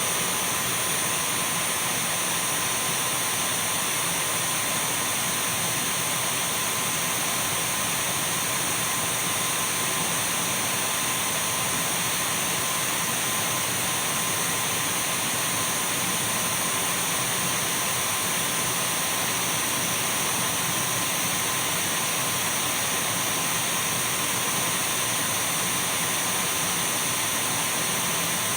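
Dyson V12 cordless stick vacuum running steadily: an even rush of air with a thin, constant high-pitched motor whine over it.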